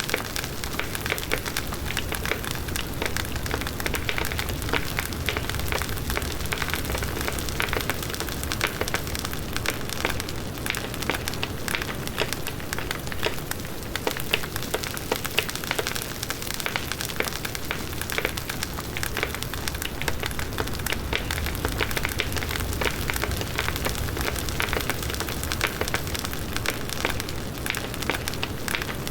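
Large wood bonfire burning: dense, steady crackling of burning wood over the low rush of the flames.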